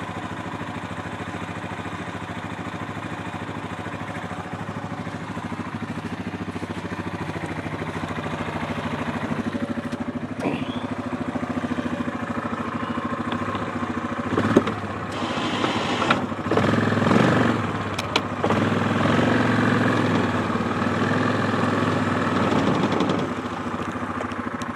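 ATV engine running steadily. About fifteen seconds in it gets louder and rougher, with a few sharp knocks, for about eight seconds before settling back.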